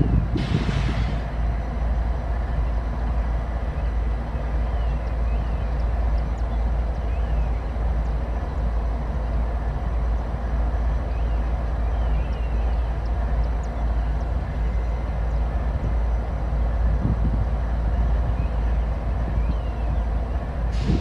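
CSX freight train rolling past with a steady rumble of wheels on rail.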